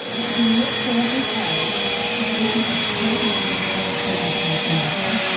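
Vacuum cleaner running steadily, with a constant high whine over its motor and airflow noise.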